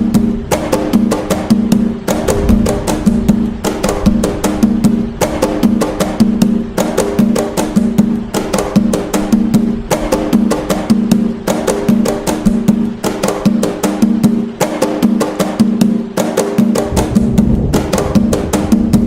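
Atabaque hand drums playing the nagô rhythm (toque nagô) of Umbanda: a fast, steady pattern of many strokes a second, with a pitched drum tone coming round about twice a second. The deepest strokes drop out for a couple of seconds past the middle.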